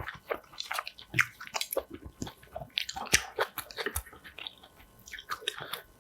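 Close-miked chewing of spicy ponytail-radish (chonggak) kimchi: a quick, irregular run of wet, crunchy bites and chews.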